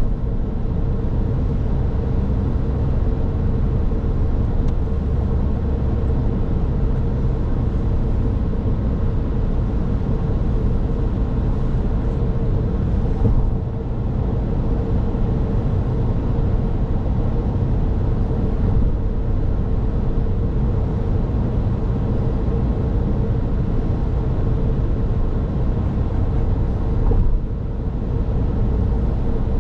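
Car driving along a road: steady engine and tyre rumble with a constant hum, dipping briefly twice.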